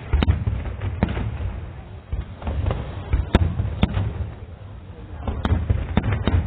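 Fireworks display: aerial shells bursting in a string of sharp bangs over a continuous deep booming rumble, with the loudest crack about three and a half seconds in.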